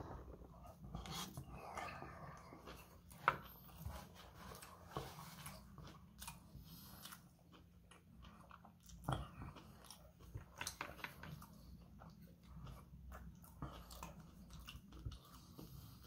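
A person chewing a mouthful of sashimi and rice: faint, wet mouth sounds with scattered small clicks, the sharpest about three seconds in.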